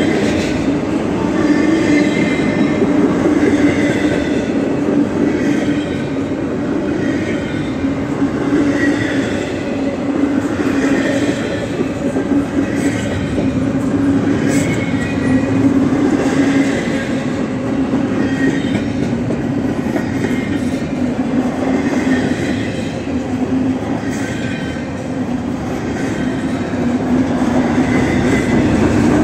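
Double-stack intermodal freight cars rolling past close by: a steady, loud rumble of wheels on rail, with short high wheel squeals now and then.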